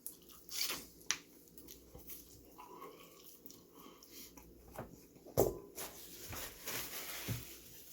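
A person biting and chewing sauced Korean fried chicken, with wet mouth sounds and a few sharp clicks, the loudest about five and a half seconds in.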